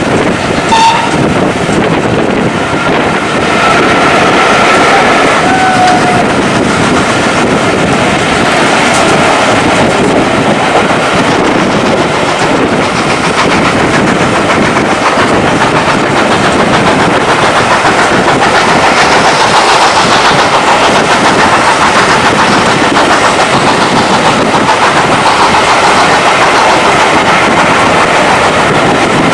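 Heritage railway train running on the rails: a loud, steady clatter and rumble of wheels on track, with a few brief high-pitched tones in the first six seconds.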